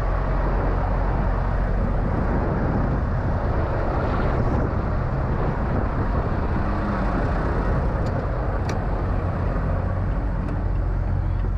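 Semi-truck diesel engine running steadily at low revs, a constant low hum heard from the cab, with one sharp click about nine seconds in.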